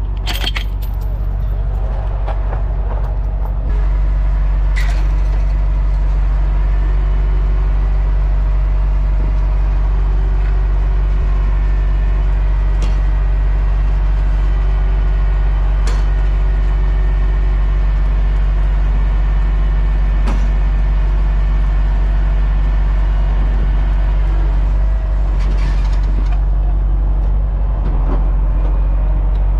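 Heavy truck engine running steadily and loudly, stepping up to a higher, louder speed about four seconds in and holding there, with a few faint clicks over it.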